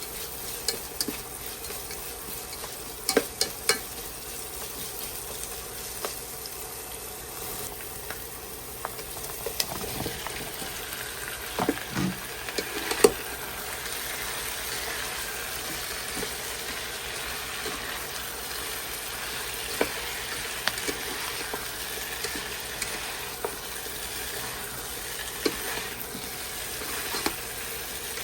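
Food sizzling in a frying pan as it is stirred, with scattered clicks and knocks of a utensil against the pan.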